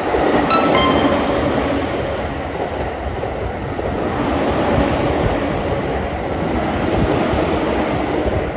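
Electric passenger train passing at speed, its wheels running on the rails in a steady rolling rush, with a brief high tone about half a second in.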